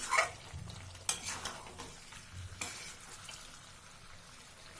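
Spatula stirring chicken in cream gravy in a kadai: a few scrapes against the pan over a light sizzle.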